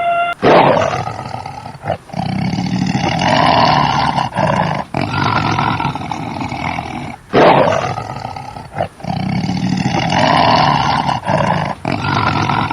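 A large animal's loud, harsh roaring calls in two long sequences, each starting suddenly and broken by short pauses, the second beginning about seven seconds in.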